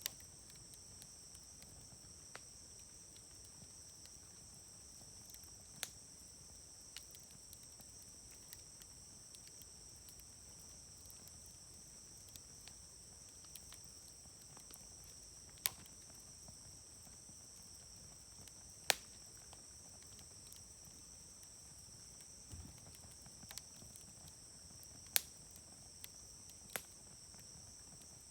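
Wood fire crackling, with scattered sharp pops from the burning wood, a few standing out louder. A steady, high insect chirring runs underneath.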